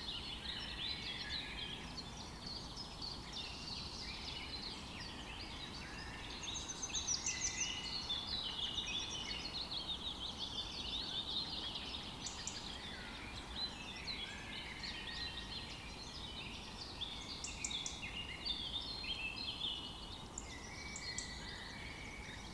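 A dense chorus of many small birds, continuous overlapping chirps and trills, over a low steady background hiss.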